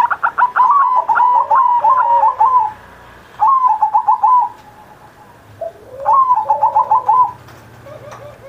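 Male zebra dove (perkutut) singing its cooing song: three phrases of rapid, evenly repeated coo notes with short pauses between them.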